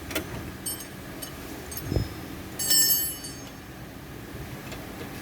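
Metal parts or hand tools clinking, with a dull thump about two seconds in and a short bright metallic ring shortly after it, over a low steady hum.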